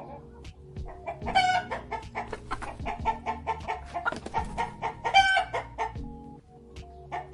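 Fowl calling: a run of rapid short clucks, with two louder, longer calls about a second in and again near five seconds.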